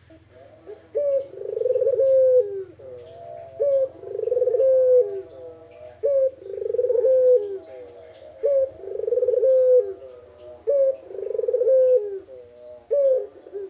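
Puter dove cooing repeatedly, about five times: each phrase opens with a short sharp note and runs into a long rolling coo.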